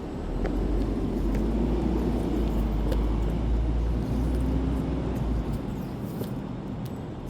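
A road vehicle passing by: a low engine and tyre rumble that swells soon after the start, holds for about five seconds and fades away near the end.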